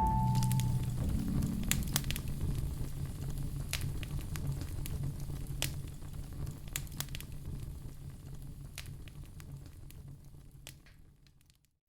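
Wood fire crackling in a fireplace: scattered sharp pops and snaps over a low rumble, fading out near the end.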